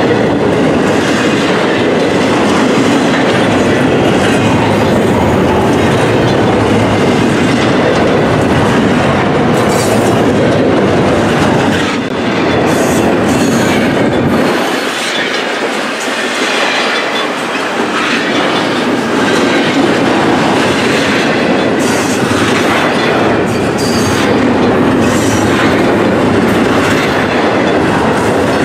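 Double-stack intermodal well cars of a long freight train rolling past: steady loud rumble of steel wheels on rail, with repeated clicking over the rail joints.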